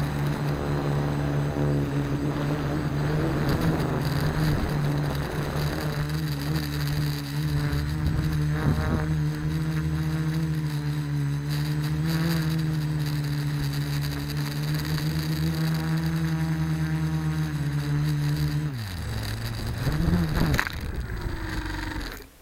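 Quadcopter's electric motors and propellers humming at a steady pitch. Near the end the motors spool down, surge up and down once, then cut off suddenly.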